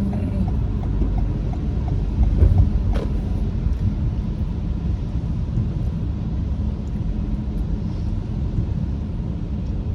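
Road and engine noise inside a moving car's cabin: a steady low rumble, with a brief louder thump about two and a half seconds in and a short click at three seconds.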